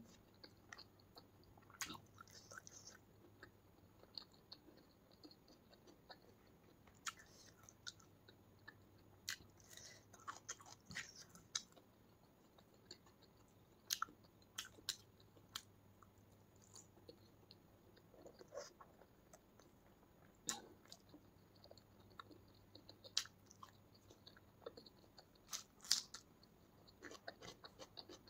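Faint close-miked eating: chewing with soft wet mouth smacks and clicks at irregular intervals.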